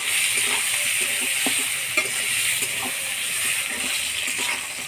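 Eggplant pieces sizzling as they fry in hot oil in a wok, with a metal spatula scraping and knocking against the pan as they are stirred; one sharper knock about two seconds in.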